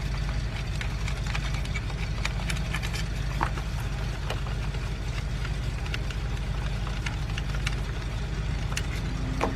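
BMW 328i engine idling roughly with a misfire, cylinders 3 and 4 not firing, with a few small clicks of tools on top.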